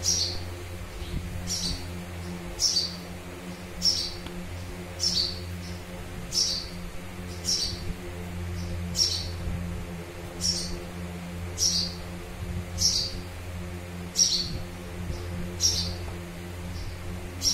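A bird gives a short, high, downward-sweeping chirp over and over, about once every second and a quarter. Under it runs a steady low electrical hum.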